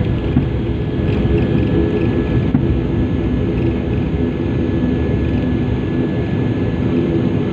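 Airliner cabin noise as the plane taxis after landing: a steady low rumble of the engines, with a faint steady high whine above it.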